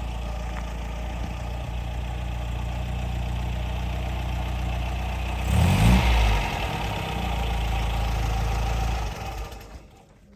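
1954 MG TF's four-cylinder engine idling steadily, with one brief blip of the throttle a little over halfway through, the revs rising and falling back to idle. The sound dies away near the end.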